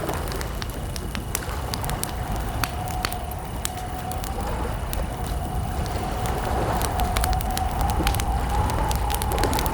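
Wood campfire crackling, with frequent sharp, irregular pops and snaps over a steady low rumble of the burning fire.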